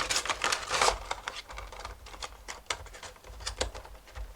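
Funko Pop box and packaging being handled: about a second of rustling and crinkling, then scattered light taps and clicks.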